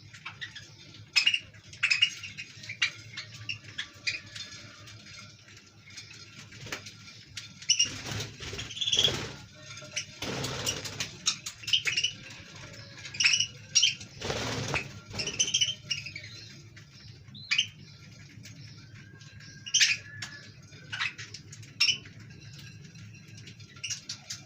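Budgerigars chirping in short scattered calls, with a few louder rustling bursts about a third and halfway through.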